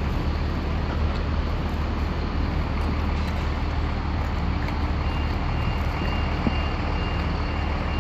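Vehicle engine and traffic rumble running steadily; about five seconds in, a reversing alarm starts beeping at a steady pace of roughly two beeps a second.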